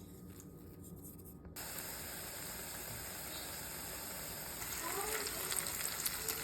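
Falafel frying in hot oil: a steady sizzling hiss that starts suddenly about a second and a half in and grows louder, with crackling, near the end.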